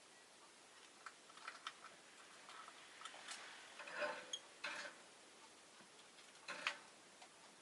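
Faint, irregular clicks and taps from a peach-faced lovebird, scattered singly and in small clusters.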